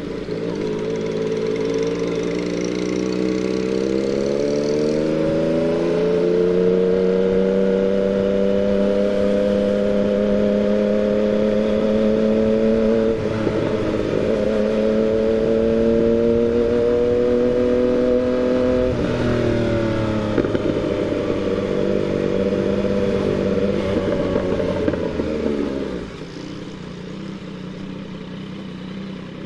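Yamaha MT-09's three-cylinder engine pulling under throttle, its pitch climbing steadily, with two quick drops about 13 and 19 seconds in as it shifts up a gear. Near the end the throttle closes and the engine note falls to a quieter, lower run.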